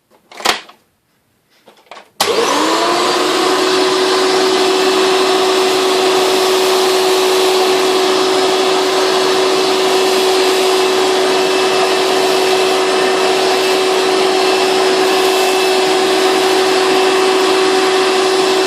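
Hoover Legacy Supreme U5099 upright vacuum cleaner switched on about two seconds in. Its motor whine rises quickly, then the cleaner runs steadily at one pitch. A short knock comes just before the start.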